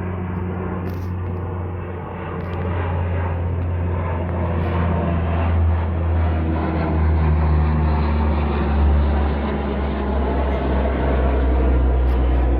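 A Lockheed C-130H Hercules's four Allison T56 turboprop engines run in a flyby, a steady low hum growing gradually louder as the aircraft approaches.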